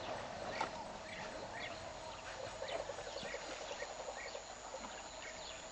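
Birds chirping in the bush: short, repeated calls about twice a second, over a steady droning chorus underneath.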